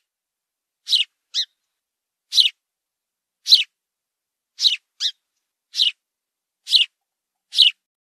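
A small bird calling: short, sharp high chirps about once a second, a few of them coming in quick pairs.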